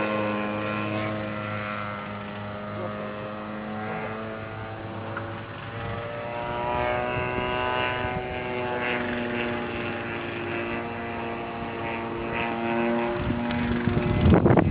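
Radio-controlled model airplane's small engine buzzing in flight, its pitch sliding up and down as it throttles and passes by. A burst of wind on the microphone comes right at the end.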